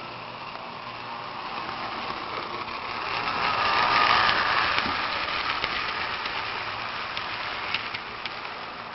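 HO-scale model trains running on the track: a steady whirring rattle of small motors and wheels with scattered clicks, swelling as a train passes close by about four seconds in, then fading.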